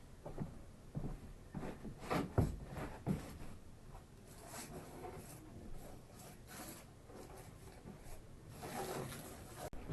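Irregular light knocks, scratches and rubbing from birds moving about in a cage, with a cluster of sharper knocks about two to three seconds in.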